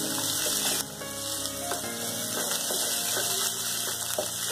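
Mashed potato and boiled peas sizzling in hot oil in a metal pan, stirred with a wooden spatula that scrapes and taps against the pan now and then.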